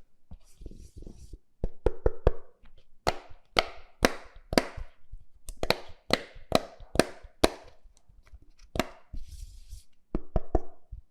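A string of irregular sharp clicks and knocks, as of small hard objects being handled and set down, with brief hissy rustles near the start and again near the end.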